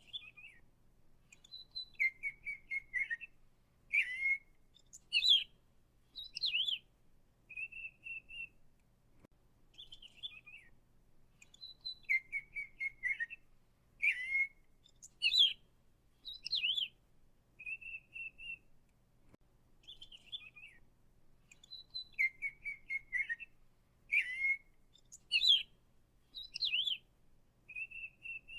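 Songbird song: clear whistled notes and short trills, with the same sequence repeating identically about every ten seconds.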